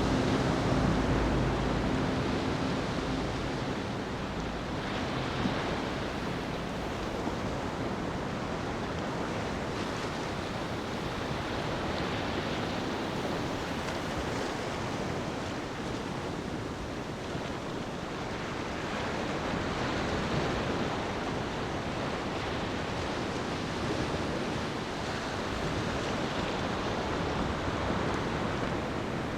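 Waves washing onto a beach: a steady surf hiss that swells and eases slowly. A low steady drone fades out in the first few seconds.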